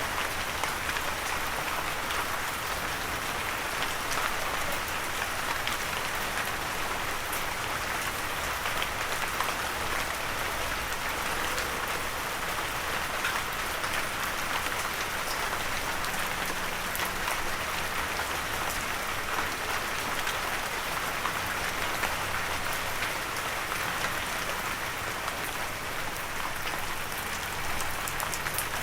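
Steady light rain falling on a surface, a dense even patter with many small drop taps, no thunder.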